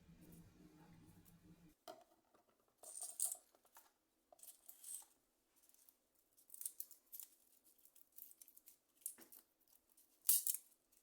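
Kitchen knife chopping garlic cloves on a chopping board: faint, irregular taps coming in short clusters.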